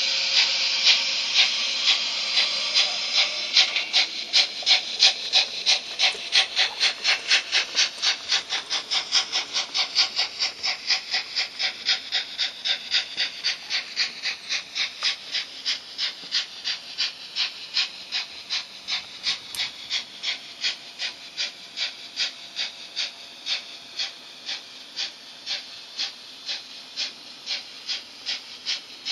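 Sound of an H0-scale model steam locomotive: a steam hiss, then rhythmic steam chuffing that gradually slows and fades as the train runs into the station.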